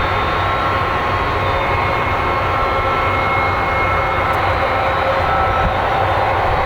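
Airbus A300 turbines running steadily: a constant whine of several high tones over a low rumble.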